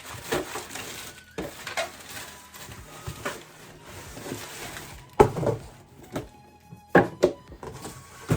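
Handling noise from a cardboard camera box with packing paper: rustling and scattered knocks, the sharpest about five seconds in and twice around seven seconds, over faint background music.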